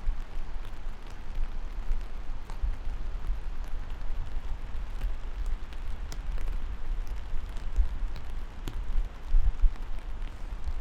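Steady rain falling, with scattered drops ticking sharply among the hiss, over a low, uneven rumble.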